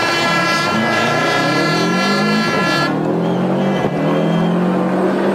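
Modified Subaru Impreza V3 WRX STi Type R's turbocharged flat-four engine accelerating, its note climbing in pitch. About three seconds in, the higher part of the note falls away and the pitch climbs again from lower down.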